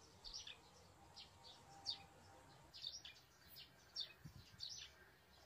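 Faint bird chirps in the background: short, high, falling notes repeating irregularly about once or twice a second.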